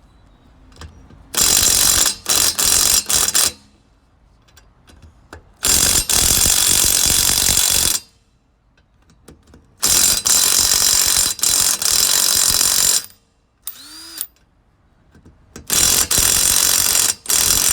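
Pneumatic-style impact wrench hammering in four long bursts of about two to three seconds each, with pauses between, on nuts that will not break loose: they are torqued way too tight.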